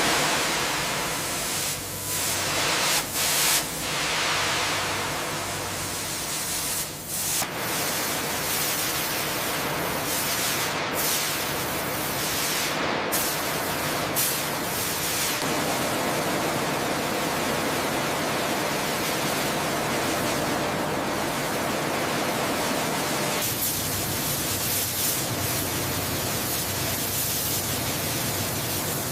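Abrasive blasting: a steady, loud hiss of blast media spraying from the nozzle. It breaks off briefly a few times in the first several seconds, then runs without a break.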